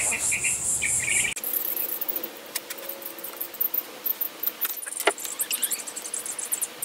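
A cricket chirping in rapid pulses, cut off abruptly about a second in. Scattered light clicks and taps follow, with fainter chirping in the background.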